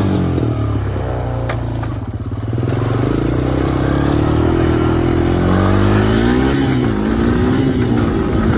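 Honda 250EX ATV's single-cylinder four-stroke engine running under throttle while being ridden, its pitch rising and falling several times, with a short easing-off about two seconds in.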